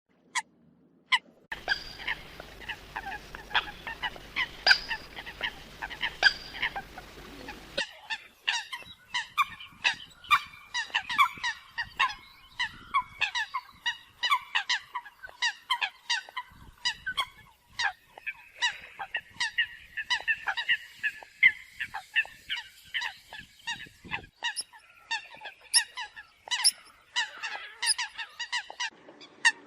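A flock of Eurasian coots calling: many short, sharp calls in quick succession, several birds overlapping. A low steady hum sits under the calls for the first few seconds and cuts off abruptly about eight seconds in.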